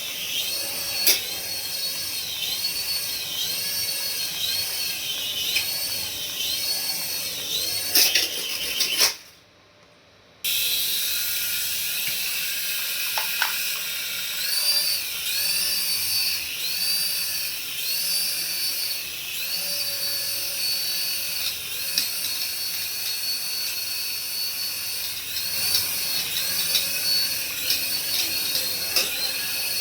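High-pitched whine of a remote-control toy's small electric motor, rising and falling in repeated surges about once a second, with a short drop-out about nine seconds in.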